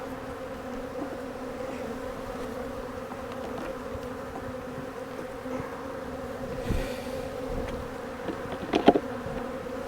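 A honeybee colony buzzing steadily in a dense hum around an opened hive; the bees are agitated and defensive. A brief louder sound comes just before the end.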